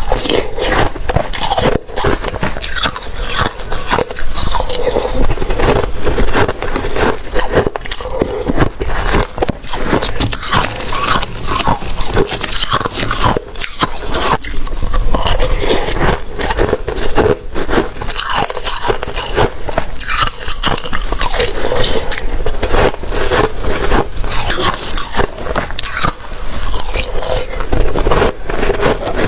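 Close-miked biting and crunching of watery, slushy ice, a dense, continuous run of wet crackles and crunches with no pauses.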